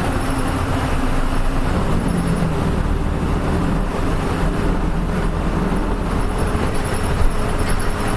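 Nissan Diesel KL-UA452MAN city bus running on the road, its diesel engine and road noise heard from inside the cabin as a steady drone. There is a brief knock about seven seconds in.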